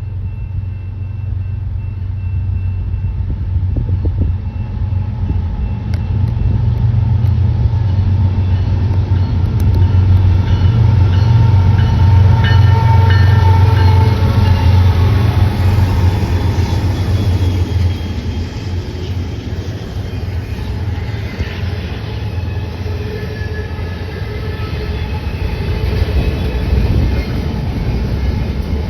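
A train passing close by: a loud low drone that builds to a peak around the middle and then eases off as the cars roll past, with thin high metallic tones above it.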